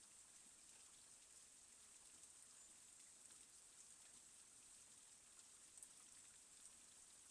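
Faint steady rain falling, a soft even hiss with scattered drop ticks.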